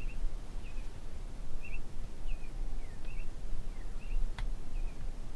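A small songbird chirping, short high notes about twice a second, over a steady low rumble. A single sharp click about four seconds in.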